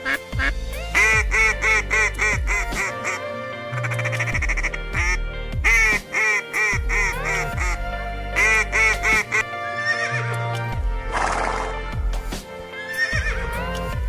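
Waterfowl quacking in quick runs of short calls, about five a second, several runs in a row, over gentle background music.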